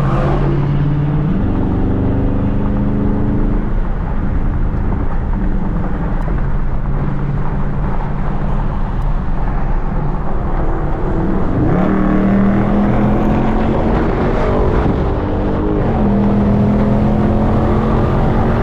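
Dodge Charger Scat Pack's V8 engine under way, heard over a constant road rumble. The engine note climbs in pitch about a second in, holds steady, then climbs again at about twelve seconds as the car accelerates.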